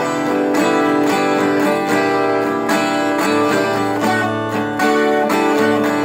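Instrumental music: a plucked string instrument picking and strumming a tune over D, C and G chords, with notes struck in quick succession.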